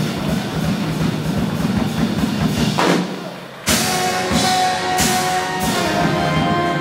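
Big band playing swing jazz with a drum kit. About three seconds in the band drops out briefly, then comes back in on a loud drum and cymbal hit.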